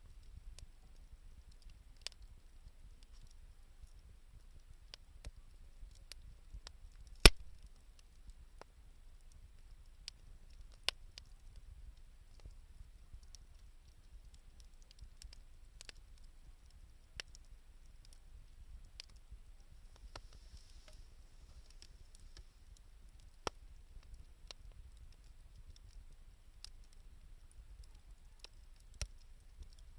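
Wood fire crackling: irregular sharp pops and snaps from burning 2×4 lumber and scrap wood, with one loud snap about seven seconds in, over a faint low rumble.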